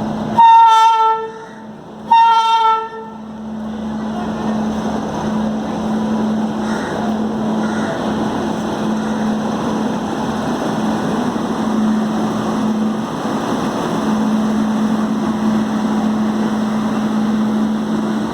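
WAP7 electric locomotive sounding its horn in two short blasts, each under a second, then the arriving train running steadily with a constant low hum over the rumble of the wheels.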